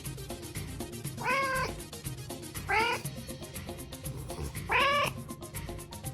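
A domestic cat meowing three times, each meow about half a second long, over background music with a steady beat.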